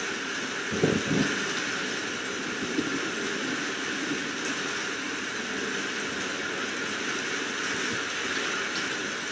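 Steady rain hiss, with a couple of short low knocks about a second in.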